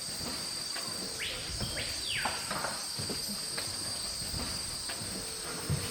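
Rainforest insects trilling steadily at two high pitches, with two falling swoops about a second and two seconds in.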